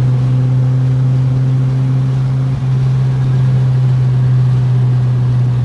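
Car engine and exhaust droning steadily as heard from inside the cabin at highway speed, with a brief break in the sound about two and a half seconds in.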